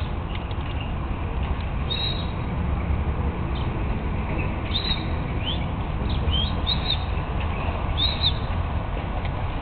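Small birds chirping: short, high notes that rise and fall, heard several times from about two seconds in, over a steady low rumble.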